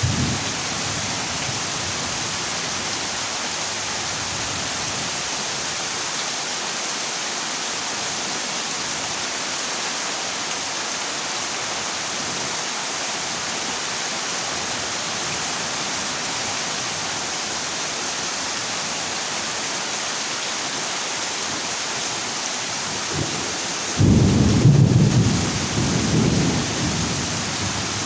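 Heavy rain drumming steadily on a corrugated zinc roof. About 24 seconds in, thunder breaks in with a sudden loud low rumble that dies away over a few seconds.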